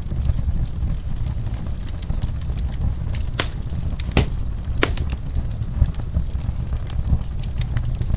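Wood fire crackling over a steady low rumble, with scattered small clicks and three sharp pops near the middle.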